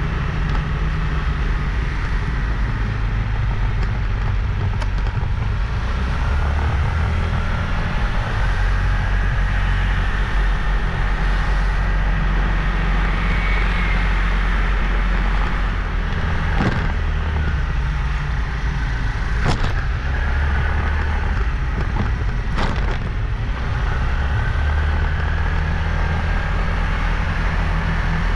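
Motorbike riding along a road: steady engine and road noise with a heavy low rumble, and three sharp knocks in the second half.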